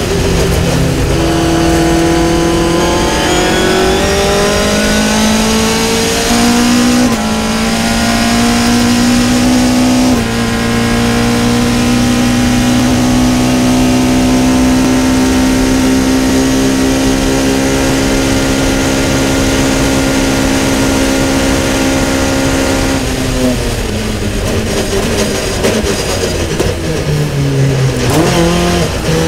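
Caterham CSR 260's 2.3-litre four-cylinder engine heard from the open cockpit, revving up hard through three upshifts. It then holds steady at full throttle, around 7,500 rpm, for about thirteen seconds. Near the end the throttle is lifted and the engine falls in pitch through a series of downshifts under braking.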